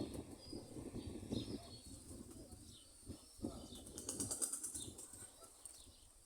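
Domestic pigeons' wings flapping, dense in the first second and a half and then in a few separate flutters, with faint bird chirps.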